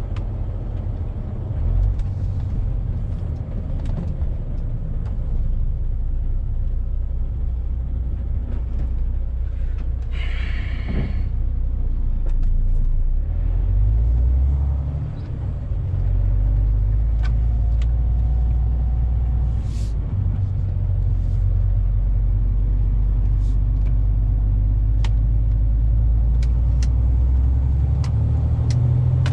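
Steady low rumble of a truck's engine and tyres heard from inside the cab while driving, with a short hiss about ten seconds in and a few light clicks later on.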